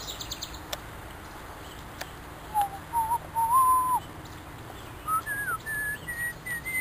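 A person whistling a short tune of clear notes. The first notes are low, the third held and then falling; after a pause the notes step higher and end on a held high note that slides down.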